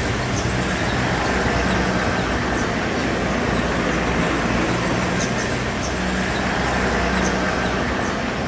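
Steady rumbling traffic or engine noise, with scattered short, high chirps of small birds over it.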